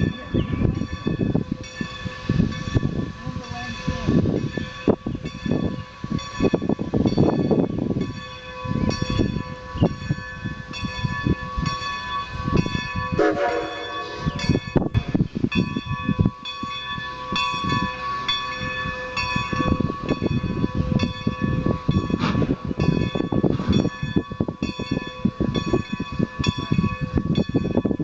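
Strasburg Rail Road steam-hauled passenger train rolling past, its wheels clicking and knocking over the rail joints, with steady high ringing tones throughout.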